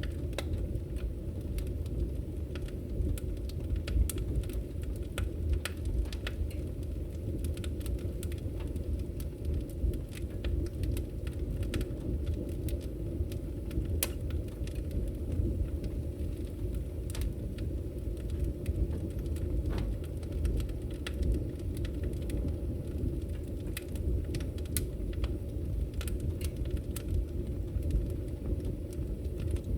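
Wood fire burning in a fireplace: a steady low rumble of the flames with frequent sharp crackles and pops from the logs, several a second.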